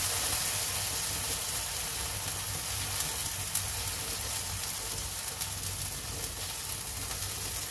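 An oats and moong dal chilla frying in desi ghee on a hot tawa, giving a steady sizzle, with a few light taps of the spatula.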